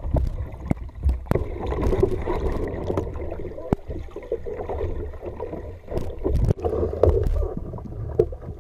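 Water sloshing and gurgling around a kayak, with scattered sharp knocks and a continuous low rumble on the microphone.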